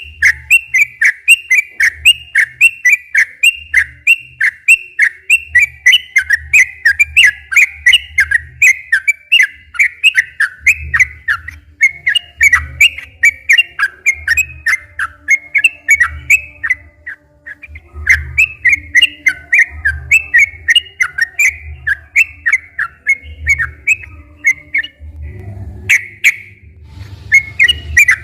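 Yellow-vented bulbul (trucukan) singing continuously in long, rapid runs of bubbling, chattering notes, with short pauses about two-thirds of the way in and near the end.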